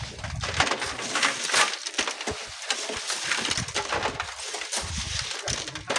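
Sand and small stones falling and rattling: a dense, steady crackle of many small ticks.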